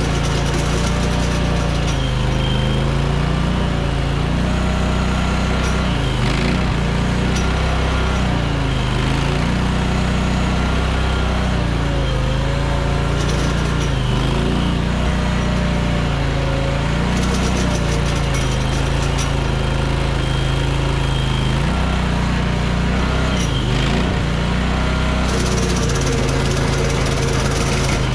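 Mini skid steer engine running hard, its pitch dipping and recovering every few seconds as the hydraulics driving the flail mower take load. There are bouts of metallic rattling at times.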